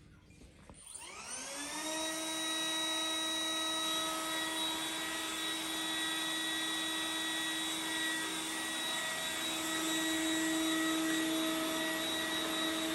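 Vacuum cleaner motor spinning up with a rising whine, then running steadily at full suction before cutting off suddenly.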